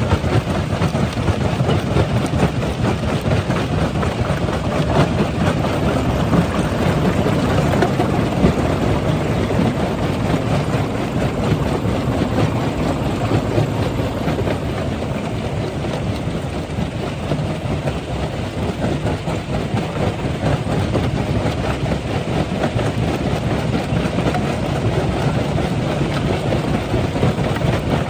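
Heavy stone-crushing machinery running under load: a steady, loud mechanical din with a continuous dense rattle of rock being crushed and conveyed.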